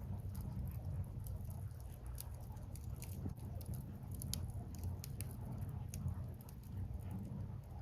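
Wood fire burning: firewood crackling, with sharp snaps and pops at irregular moments over a steady low rumble.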